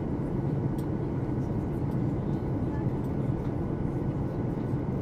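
Steady cabin noise of a Boeing 737-800 in flight: an even, low rush of engines and airflow.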